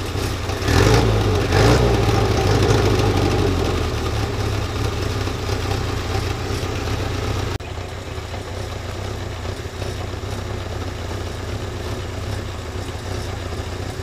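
Off-road 4x4's engine running, revved up twice about a second in and then easing back. Partway through, the sound drops abruptly to a quieter, steady idle.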